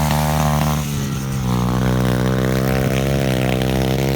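Small dirt bike engine running steadily at a nearly constant pitch, with a slight dip in level and pitch about a second in.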